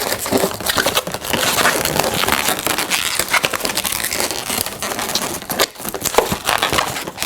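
Inflated latex modelling balloons rubbing, creaking and squeaking against each other as a 260 balloon is worked and tied onto a twist, a dense run of crackly rubbing with short sharp squeaks.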